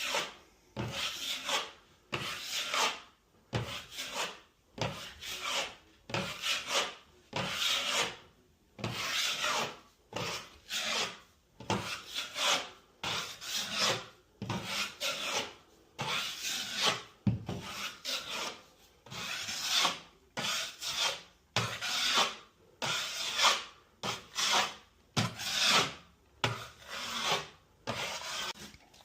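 Joint compound being spread over taped drywall with a blade, a run of scraping strokes about once a second, some in quick pairs.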